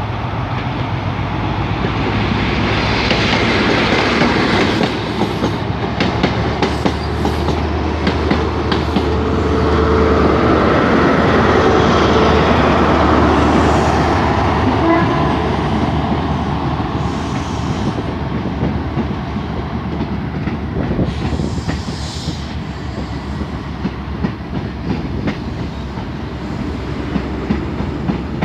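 Diesel train running past, its engine a steady low drone that grows loudest about ten to fourteen seconds in and then eases, with wheels clicking over rail joints.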